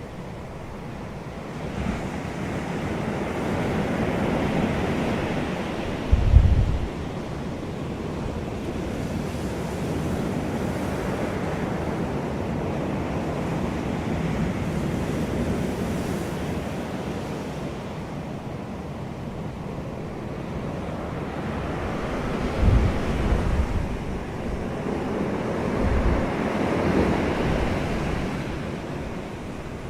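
Outdoor wind blowing steadily, swelling and easing in long gusts. A few times, about six seconds in and again near the end, it buffets the microphone with low rumbling thumps.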